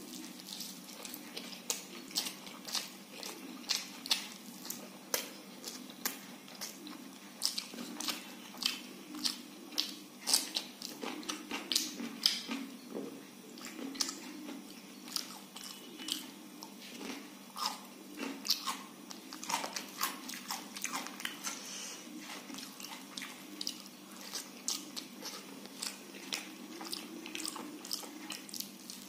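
Close-up eating sounds of a person chewing khichdi and crisp fried fish and vegetable fries by hand: wet mouth smacks and crunches, several irregular clicks a second.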